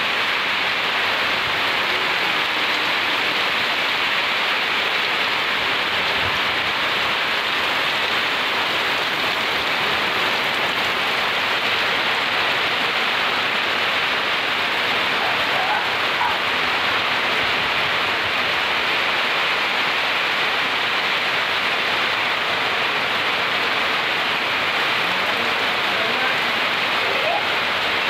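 Heavy rain falling steadily, a dense, even hiss that holds at the same level throughout.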